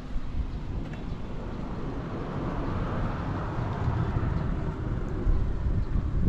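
Yamaha Breeze 125 ATV's four-stroke engine running, getting gradually louder through the second half.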